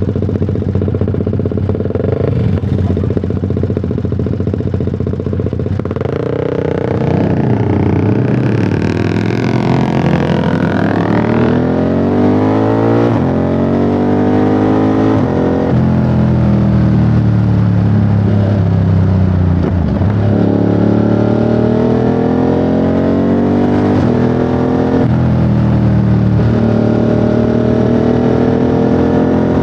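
Ducati Monster 937's 937 cc Testastretta twin running at low revs for the first few seconds, then pulling away: the engine note climbs and drops back several times as the rider accelerates and shifts up.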